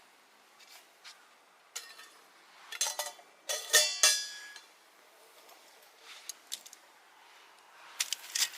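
Camp cookware and utensils clinking and knocking together. A cluster of loud, ringing metallic strikes comes about three to four seconds in, with a few sharper clinks near the end.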